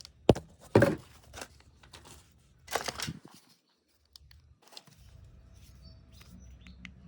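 Several sharp clicks and knocks of hard objects, loudest in the first three seconds, then a short silence followed by faint scattered ticks over a low steady hum.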